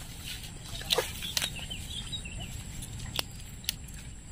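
Faint bird chirps over a low steady rumble, with a few sharp clicks.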